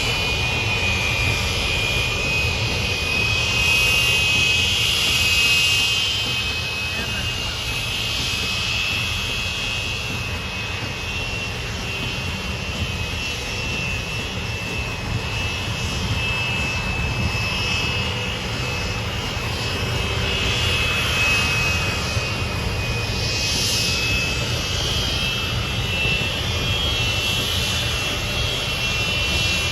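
Aircraft engines running: a steady low rumble with a high-pitched whine over it.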